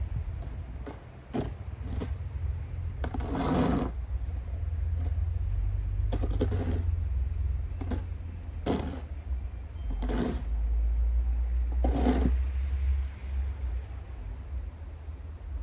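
Snow shovel scraping and scooping snow off pavement in a series of short strokes, about nine in all, some drawn out to half a second or more. Under them runs a steady low rumble of wind on the microphone.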